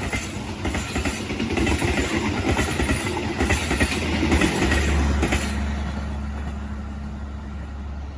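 Train passing close by, its wheels clattering over the rails. About five and a half seconds in the clatter stops, leaving a steady low drone that slowly fades.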